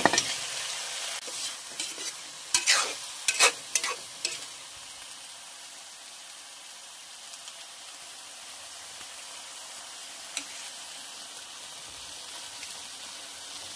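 Sponge gourd (patola) and meat sautéing in a metal wok with a steady sizzle. A metal spatula scrapes and clanks against the pan several times in the first few seconds, with one more click later.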